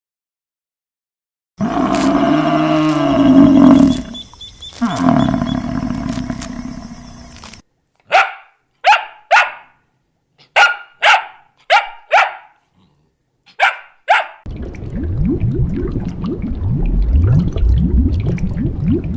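A run of animal calls: a long, drawn-out call lasting about six seconds, then a dog barking about nine times in short, separate barks, then a low, rough, pulsing growl for the last few seconds.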